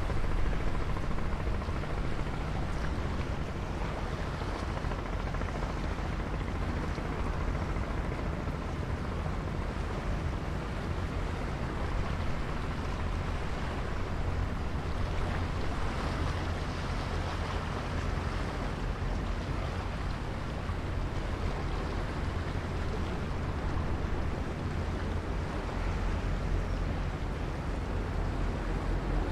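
Strong wind blowing over the microphone: a steady rushing noise with a deep rumble underneath.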